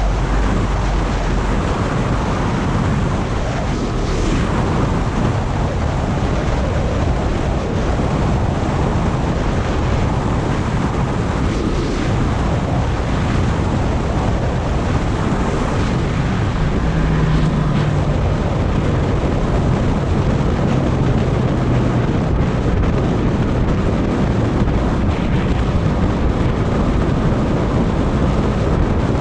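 Heavy, steady wind noise on the microphone of a moving Yamaha MT-10 motorcycle. The bike's crossplane inline-four engine shows only faintly under the rush of air, most clearly in the second half.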